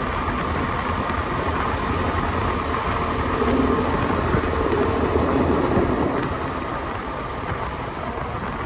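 Motor scooter engine running while riding, a steady low hum under rushing road and wind noise, easing off a little near the end.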